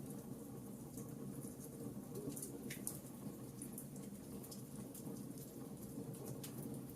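Wood fire burning in a fireplace: a steady low rush of flame with frequent small crackles and pops of burning wood, one sharper crack a little before the middle.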